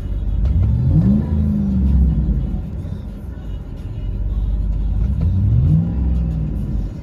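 Chevy Suburban 5.3-litre V8 through a MagnaFlow MagnaPack exhaust, heard from inside the cabin, idling with a low rumble and revved twice: each rev climbs quickly, holds for about a second, then drops back to idle. The exhaust has a deep tone.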